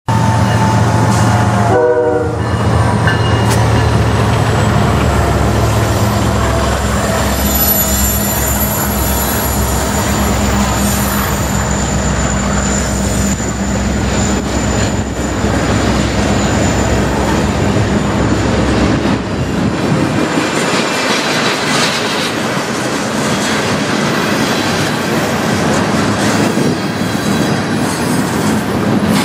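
Freight train passing close by: the diesel locomotives' engines rumble for most of the first two-thirds, then the freight cars roll past with wheel clatter. A thin, high, steady wheel squeal rings out from a few seconds in until about two-thirds of the way through.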